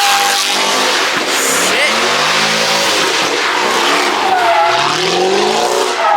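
Car tires squealing in a sustained skid, the squeal wavering up and down in pitch, while the engine revs hard and climbs in pitch near the end, as in drifting or donuts at a street takeover.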